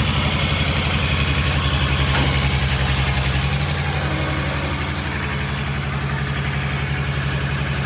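Truck engine idling steadily with an even low pulse, plus a single sharp click about two seconds in.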